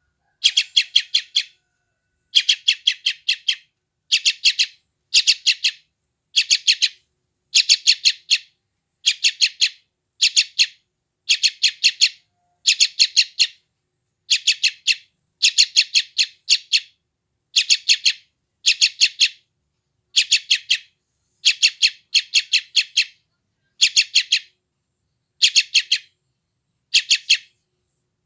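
Yellow-vented bulbul (trucukan) chick calling noisily, as a hungry young bird does: short bursts of four to six rapid high chirps, repeated about every second and a half, with silence in between.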